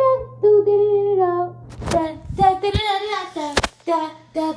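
A woman singing held, gliding notes without clear words. Two sharp knocks come about two seconds in and again near three and a half seconds.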